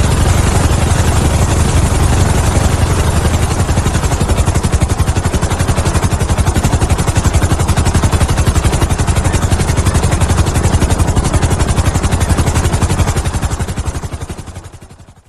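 Helicopter flying: the rapid, even chop of the rotor blades over the engine's hiss, steady, then fading out over the last two seconds.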